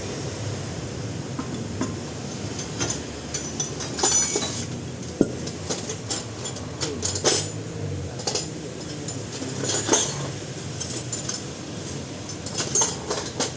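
Irregular metallic clinks and knocks of hand tools against steel car parts during front-suspension work, over a steady low hum.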